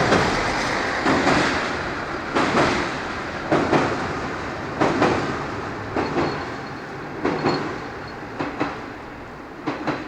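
Train running over rail joints: its wheels click in pairs about every 1.2 seconds over a steady rumble, the sound fading as it moves away.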